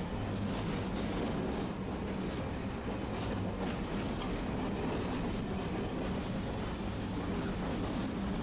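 Tosaden streetcar running along its track, a steady rumble of wheels and motor heard from inside the car.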